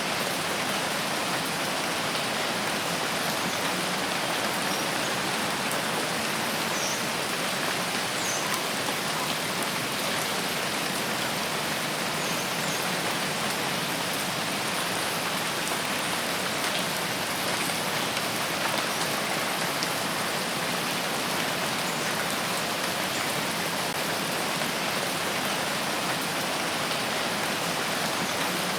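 Steady rain falling in a forest, an even hiss of drops pattering on surfaces. A few faint, short high chirps come through the rain now and then.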